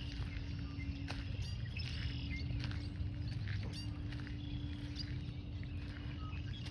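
Birds chirping in short, scattered calls over a low outdoor rumble, with a steady low hum underneath.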